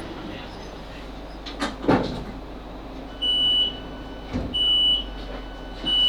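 Class 458 train's door equipment at a stop: a couple of clunks, then three high beeps about a second and a half apart, the door warning tone as the passenger doors are released.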